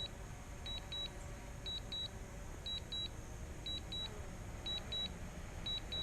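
Drone remote controller's low-battery warning beeping: a short high double beep about once a second, over a low steady background noise.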